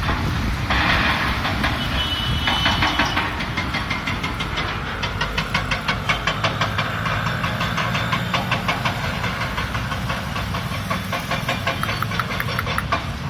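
A pet parrot mimicking the engine of a JCB excavator: a hiss, then a long, fast run of chattering clicks like a knocking diesel engine.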